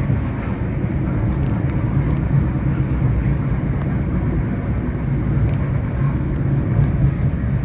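NJ Transit commuter train running, heard from inside a passenger car: a steady low rumble of wheels on rail with a few faint clicks.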